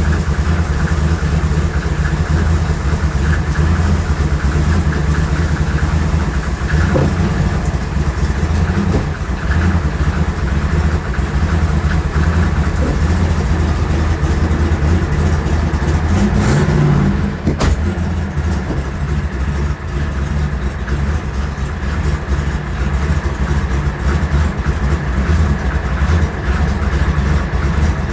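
Twin-turbo 6.2-litre Hemi V8 of a Dodge Charger Hellcat drag car idling steadily. About sixteen seconds in there is a brief rise, followed by a sharp click.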